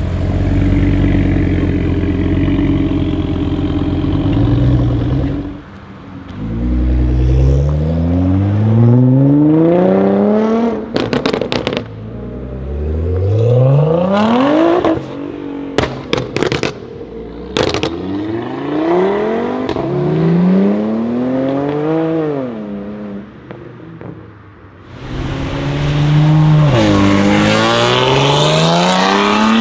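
Audi RS3 8V's turbocharged 2.5-litre five-cylinder engine, stage 1 tuned, accelerating hard through the gears: a steady low note, then the pitch climbs and drops again at each shift. Sharp exhaust crackles and pops come between pulls. Near the end the revs dip and climb once more.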